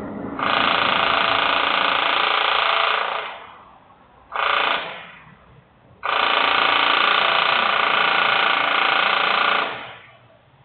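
Loud industrial machinery noise in three bursts: a run of about three seconds, a short half-second burst, then a longer run of nearly four seconds. Each starts abruptly with a many-toned mechanical whine and dies away over about half a second.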